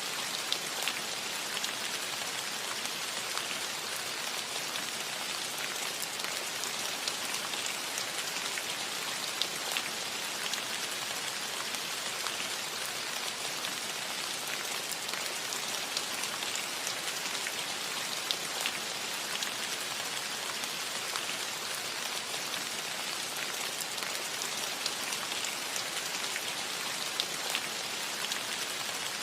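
Steady rain falling on a cottage roof: an even hiss with many small drop ticks scattered through it.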